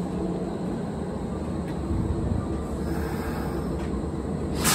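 Kintetsu 1240-series two-car electric train rolling slowly along the platform to a stop, a steady low rumble. Near the end, a short, louder hiss.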